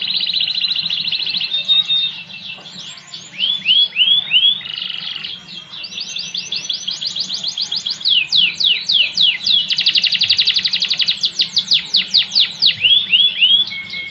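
Spanish Timbrado canary singing a continuous song: fast, rattling trills of rapidly repeated notes alternating with runs of quick falling notes, the phrase changing every second or two.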